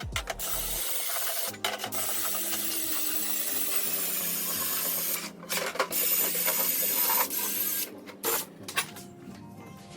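Drill spinning a scouring pad against a pressed aluminium panel, a steady scrubbing whir that breaks off briefly a few times. The pad is scuffing the shine off the metal so the paint will stick.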